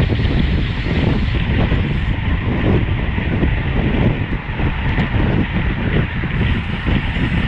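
Steady rush of wind on the microphone of a camera riding on a road bike at racing speed, with road and tyre noise under it.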